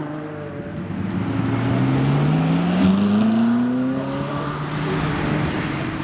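Supercar engine accelerating, its pitch rising steadily for about three seconds before easing off.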